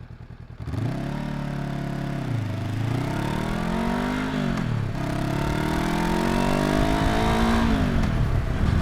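Honda NX500's 471 cc parallel-twin engine and exhaust pulling away under throttle after a brief low rumble. The revs climb and drop back three times as it goes up through the gears.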